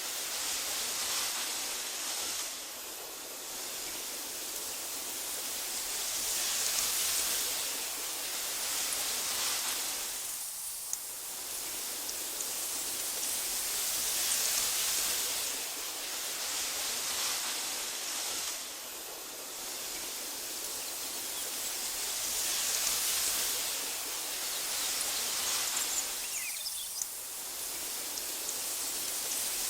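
Wind rustling through tall meadow grass: a steady hiss that swells and eases in slow waves, about every eight seconds.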